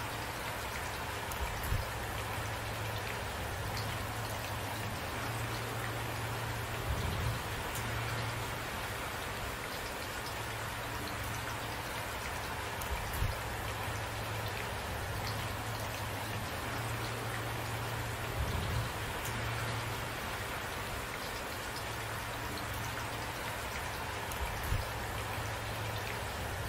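Steady rain falling and pattering on surfaces. Soft, brief low thuds break through about every five or six seconds.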